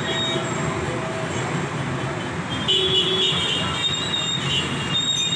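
Steady street traffic noise from vehicles on a rain-flooded road, with a high-pitched tone joining about halfway through.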